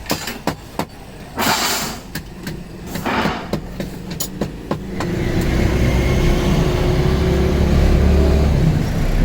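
A run of sharp taps and knocks with two short hisses, then about halfway through a motor starts and runs steadily with a low rumble.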